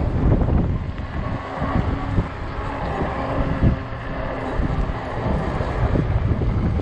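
Gusty wind buffeting the microphone on a moving fat-tire e-bike: a loud, steady low rumble with a few short knocks in between.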